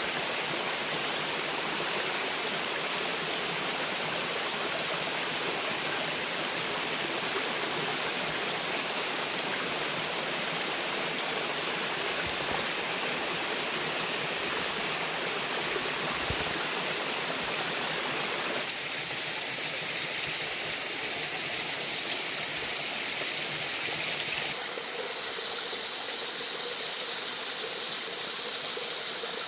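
Steady rushing of running water from a forest stream, its character changing abruptly a few times. Near the end a high, pulsing whine joins in and the level turns more uneven.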